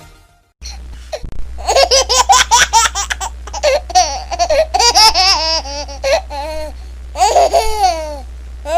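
A baby laughing in runs of quick, high-pitched laughs, starting about a second and a half in, with a second bout near the end.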